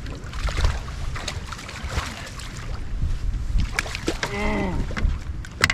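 Wind rumbling on the microphone in an open fishing boat, with scattered knocks and clicks of rod and tackle handling and a sharp click near the end. A brief wavering call comes about four seconds in.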